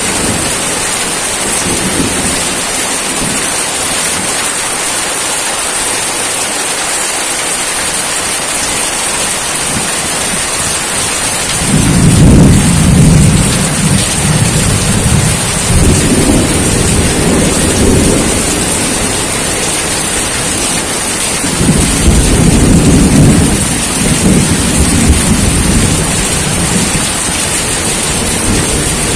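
Steady rain falling, a constant hiss, with thunder rumbling low and long twice: a roll starting about twelve seconds in and lasting several seconds, and another a few seconds later.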